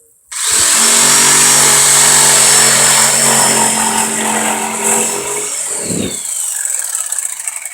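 Electric power saw cutting lumber: the motor runs loud and steady with the blade in the wood for about five seconds, then falls in pitch as it spins down and fades out near the end.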